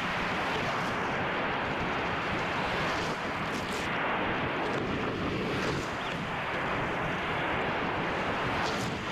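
Ocean surf rushing and washing steadily, with wind buffeting the microphone and a few brief splashy swishes.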